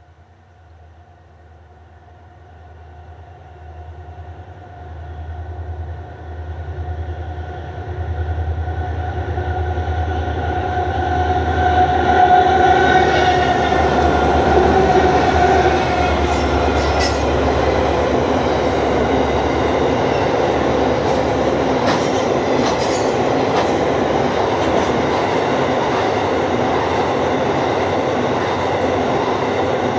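A diesel-hauled freight train passing: the drone of the three diesel locomotives (two CL-class streamliners and a 49 class) grows louder over the first dozen seconds. Then the loaded grain wagons roll by with a steady rumble and occasional sharp wheel clicks.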